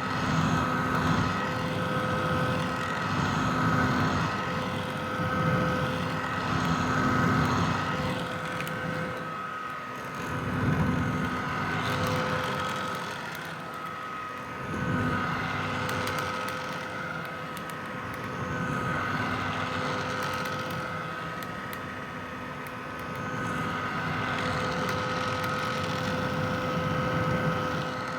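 Vintage hair dryer running steadily: a motor whine over rushing fan air, swelling and easing every few seconds.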